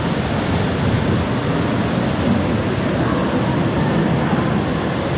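Steady rush of falling and splashing water, loud and even.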